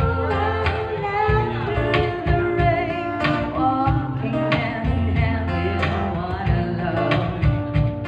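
Live acoustic band: a woman singing a slow pop melody over strummed and plucked acoustic guitar, with light acoustic percussion keeping a steady beat.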